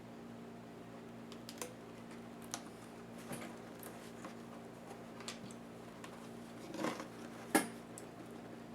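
Irregular light clicks and taps of small laptop parts being handled and pried during disassembly, over a steady low hum; the sharpest click comes about three-quarters of the way through.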